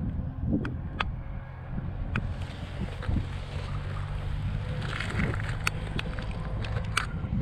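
Motorcycle engine idling steadily, with wind buffeting the microphone and several sharp clicks.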